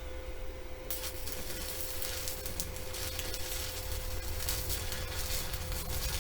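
Stick-welding arc on a flux-coated rod, starting about a second in with a steady sizzling crackle as a bead is laid on the mower deck's steel.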